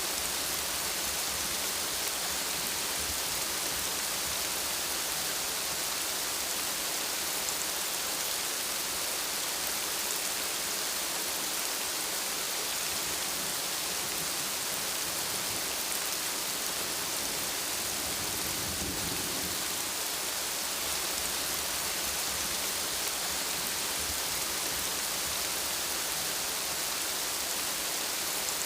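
Steady, dense rainfall hissing evenly, with a brief low rumble of thunder about two-thirds of the way through.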